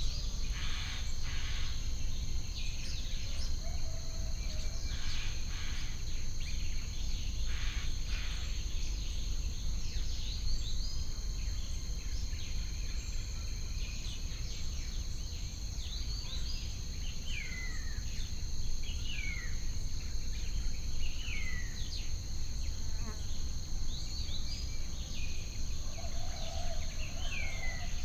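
Nature ambience of insects buzzing steadily and high, with short downward-sliding bird calls repeated mostly in the second half, over a steady low rumble.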